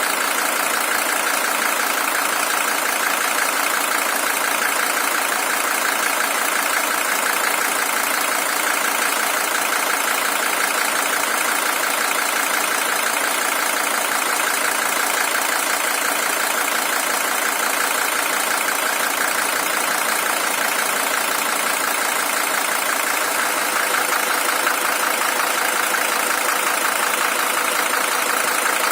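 Mercedes-Benz OM617 five-cylinder diesel engine idling steadily with its diesel clatter, a high-mileage original engine with 620,000 km on it.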